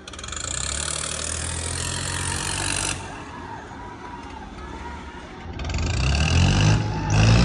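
Diesel tractor engines running, with a high hiss over them for the first three seconds; from about five and a half seconds in the engine sound grows much louder.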